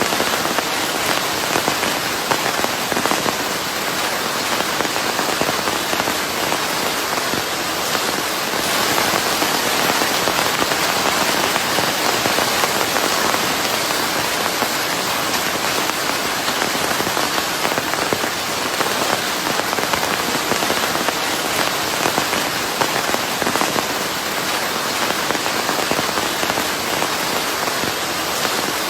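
Steady rain falling on a surface, a dense even hiss full of fine pattering drops, blended with white noise.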